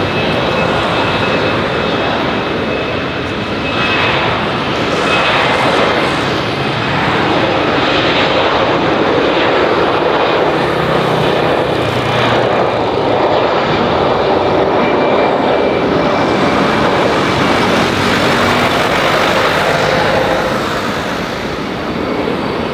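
Airbus A320-214's twin CFM56 turbofan engines running loud and steady as the jet takes off.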